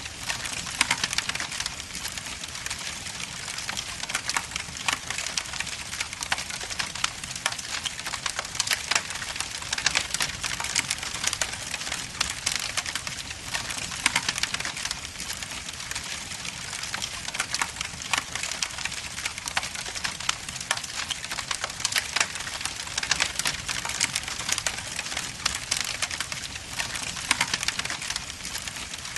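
Log fire burning in a fireplace, with a steady hiss and constant irregular sharp crackles and pops from the burning wood.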